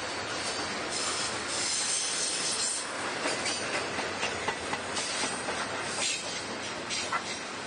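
Freight train cars rolling past, their wheels knocking irregularly over the rail. A high steel wheel squeal sounds between about one and three seconds in.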